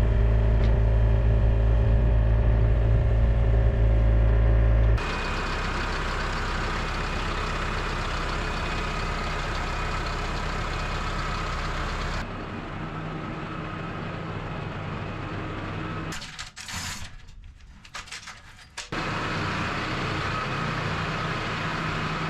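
A machine's engine running steadily, heard in several edited stretches: loud with a strong low hum for the first five seconds, then quieter after abrupt cuts, with a brief quieter dip about three quarters of the way through.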